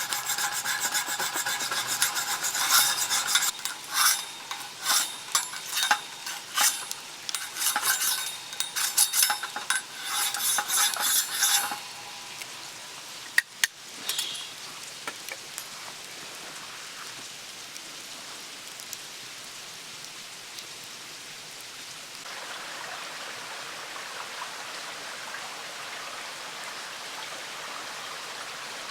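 Metal spatulas scraping, chopping and clicking on a hot iron griddle, stirring monjayaki ingredients that sizzle. About twelve seconds in the scraping stops, leaving a steady hiss with a single click soon after; the hiss grows a little louder near the end.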